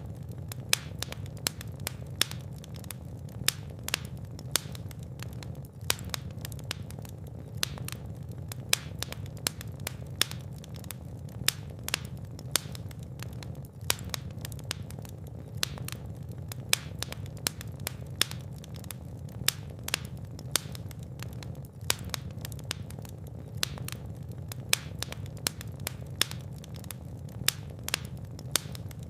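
Fire in a fireplace crackling, with irregular sharp pops, several a second and some louder, over a steady low rumble of flames.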